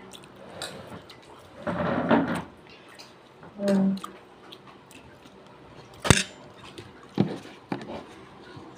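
Eating at a table: a sharp clink of a utensil against a plate about six seconds in, a smaller one about a second later, a short rustling scrape near two seconds and a brief hummed 'mm' near four seconds.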